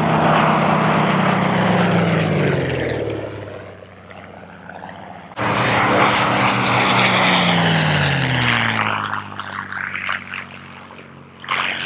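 Propeller airplane flying past, its engine note dropping in pitch as it goes by and fading. A second pass cuts in abruptly about five seconds in, with the same falling note.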